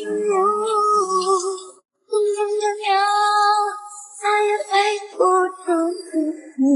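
Background song with a high sung vocal holding long, sustained notes. It drops out briefly for a moment about two seconds in.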